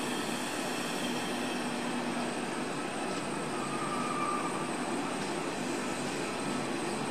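Double-deck electric train approaching slowly along the platform, a steady rumble of wheels and traction equipment with a faint low hum and a brief high tone about four seconds in.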